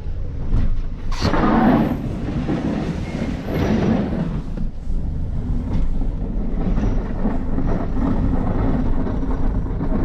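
Snow plow at work: a vehicle's engine running with a steady rumble while the plow blade scrapes snow off the pavement. A sharp knock about a second in sets off a surge of scraping noise, with another swell a couple of seconds later.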